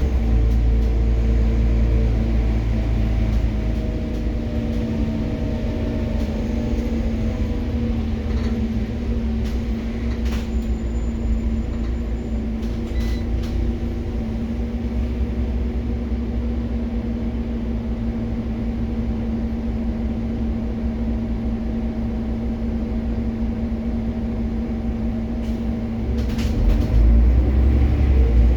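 Scania OmniCity city bus heard from inside the cabin: engine and drivetrain hum with a steady low drone. The rumble is louder at first, settles through the middle, and swells again near the end as the bus picks up.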